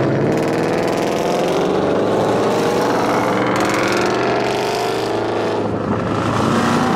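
Car engine accelerating and revving, its pitch rising and falling.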